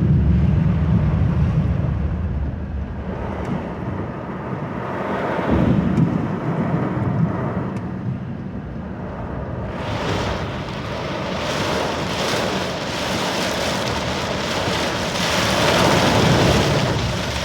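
Car driving on a rain-soaked, partly flooded road, heard from inside the cabin: a low road rumble, then about ten seconds in a louder hiss of tyres on water and rain spray.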